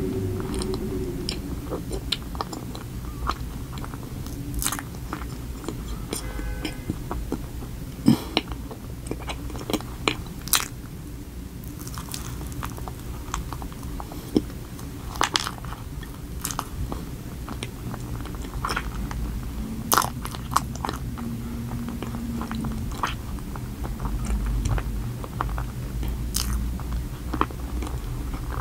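Close-miked chewing of a cream-filled chocolate donut topped with Oreo cookie crumbs, with scattered sharp crunches and mouth clicks.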